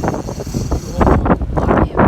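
Wind buffeting the microphone in loud low rumbling gusts, heavier from about a second in.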